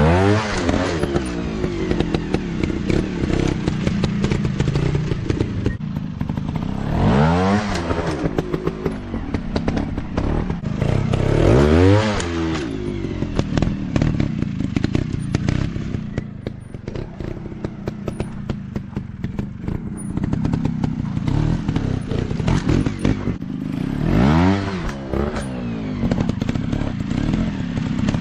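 Off-road dirt bike engines running, the pitch rising and falling four times as the throttle is opened and closed, with scattered clattering and knocks.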